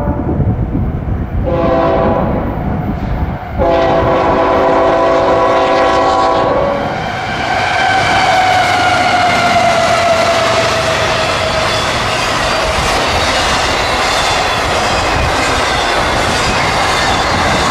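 CSX freight locomotive's multi-chime air horn sounding two blasts for a grade crossing, the second held about three seconds. The locomotive then passes close by with its sound falling in pitch, and the intermodal cars roll past with steady wheel clatter.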